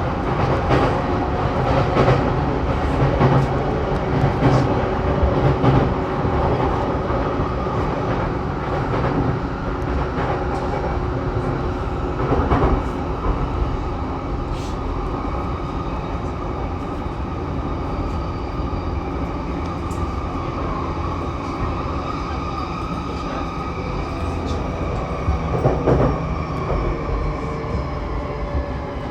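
Saikyo Line electric commuter train running, heard from inside the car: a steady rumble of wheels on rail with a hum of motor tones and occasional rail-joint knocks. The tones drop slightly in pitch near the end.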